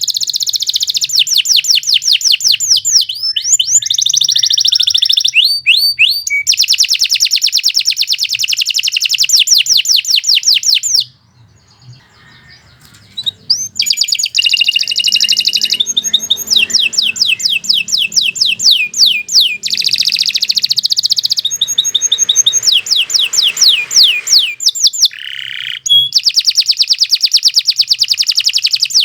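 Canary singing long, rapid trills of quickly repeated high sweeping notes, changing from one trill to the next, with a pause of about two seconds partway through before the song resumes.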